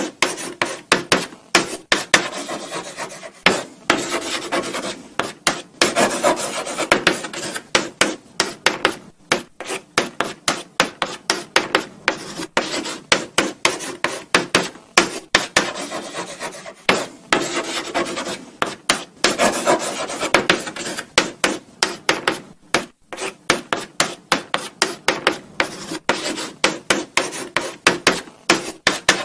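Chalk writing on a blackboard: a steady run of short scratching strokes, several a second, with brief pauses between them.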